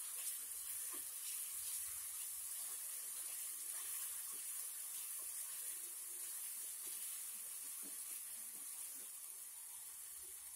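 Chopped onions and ginger-garlic paste sizzling in hot oil, a steady hiss, while a spatula stirs them in the pan with faint light scrapes.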